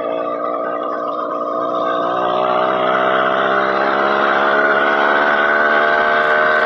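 Motorized bicycle's small engine running under way, its pitch rising a couple of seconds in as it speeds up, then holding steady.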